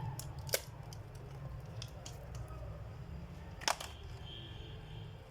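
Two sharp clicks about three seconds apart, with a few fainter ticks, as laptop plastic parts are handled, over a steady low hum.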